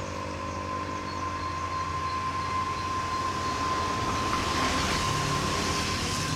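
Dump truck's diesel engine labouring up a steep climb, with a steady high whine over a low running note; the noise swells about four to six seconds in as the truck passes.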